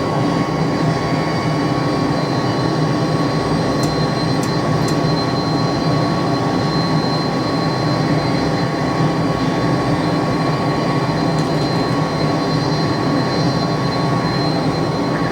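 McDonnell Douglas DC-10 jet engines running steadily during the takeoff run: a dense low rumble with two steady whining tones on top.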